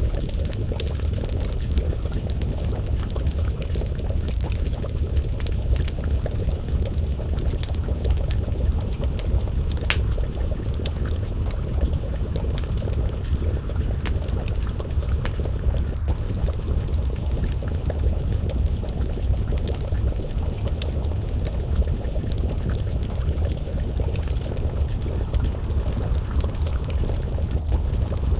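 A pot of stew bubbling over a wood fire: a dense, steady low rumble with scattered sharp crackles and pops from the burning wood.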